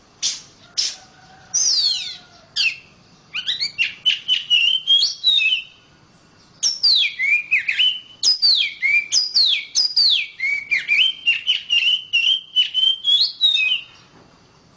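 Female Oriental magpie-robin singing in breeding condition: rapid, varied whistled phrases with sharp up-and-down sweeping notes, in three runs broken by short pauses about three and six seconds in.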